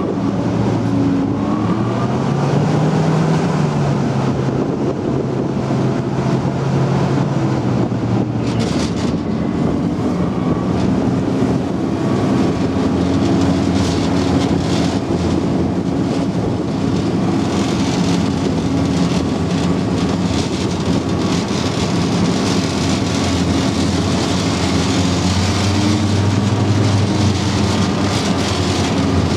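Type 94 amphibious mine-laying vehicle's engine running steadily under way, heard on board. Its pitch rises a little about two to three seconds in, and the low hum grows louder near the end.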